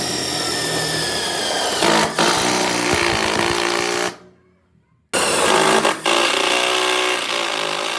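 A motor-driven machine running in two stretches, stopping just after four seconds and starting again abruptly about a second later.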